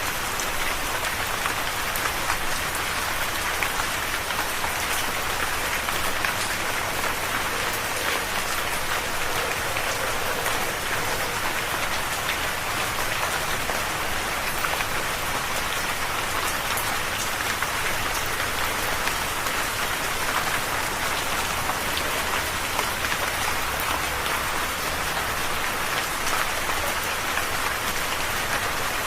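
Steady rain falling, an even patter of many drops on a surface with fine individual drop ticks throughout.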